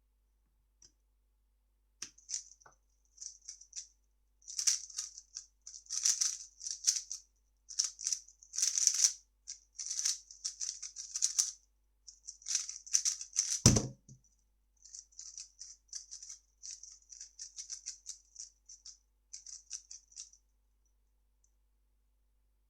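A 3x3 speedcube being turned fast, a continuous rapid clatter of plastic layer turns for about twelve seconds. It ends in a single low thump, followed by several seconds of quieter, sparser turning.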